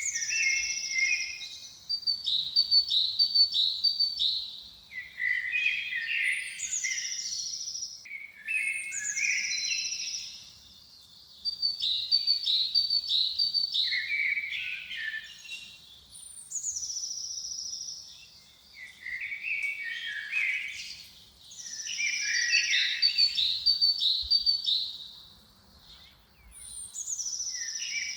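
A songbird singing, repeating a high, fast, varied phrase every few seconds with short pauses in between.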